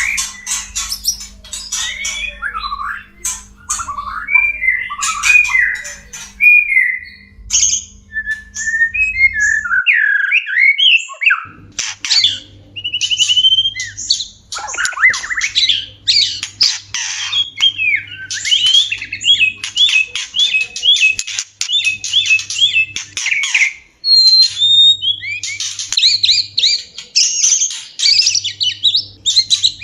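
White-rumped shama (murai batu) mating song: a long run of varied whistled phrases that turns into fast, dense chattering and trills in the second half. Under it is a low hum that breaks off about a third of the way in and then comes and goes.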